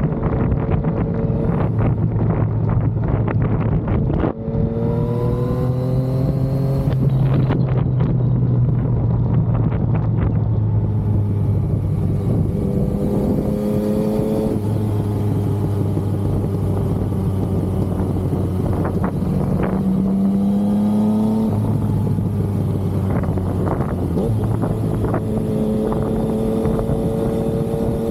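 Yamaha XSR900's inline-three engine under way, the revs climbing three times and dropping back between, with steadier running in the stretches between.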